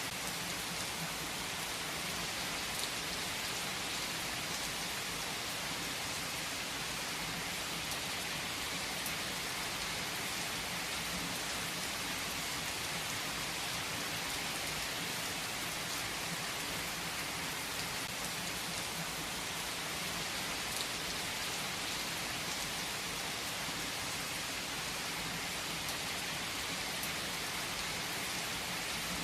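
Steady rain falling and pattering on a surface, an even hiss with a few sharper drop ticks.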